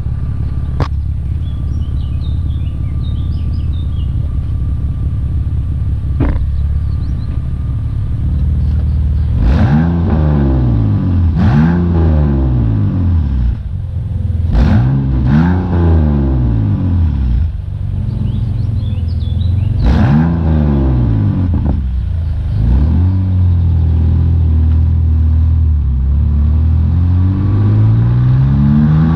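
BMW E46 330Ci's 3.0-litre inline-six heard through its exhaust: it idles steadily for several seconds, then is revved in about five quick blips that rise and fall. Near the end it makes one slower, longer climb in revs.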